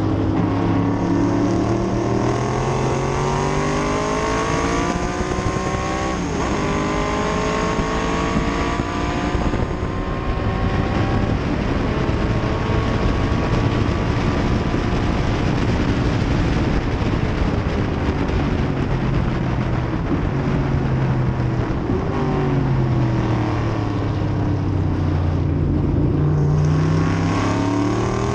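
A 1968 Corvette's V8 racing engine, heard from inside the car over steady wind rush. It accelerates hard with rising pitch for about the first ten seconds and holds high revs along the straight. A little over twenty seconds in the pitch falls as the car slows, then it rises again near the end.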